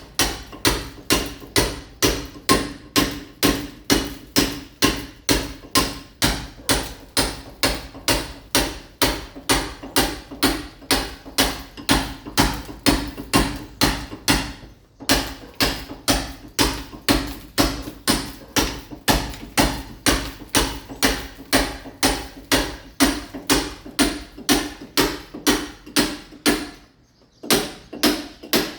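Mason's hammer (marreta) striking a masonry wall, chipping the surface to key it for ceramic tile. Steady, even blows about two a second, with a brief break about halfway and another near the end.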